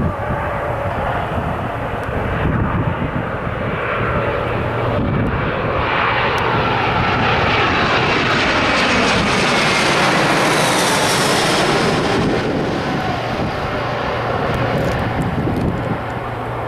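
Jet airliner passing close by, its engine noise swelling to a peak about ten seconds in, with a whine that slides down in pitch as it goes past, then fading.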